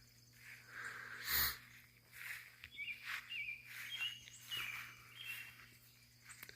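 Faint outdoor birdsong: repeated short chirps and stepped whistled notes from small birds, over a low steady hum, with one soft knock about a second and a half in.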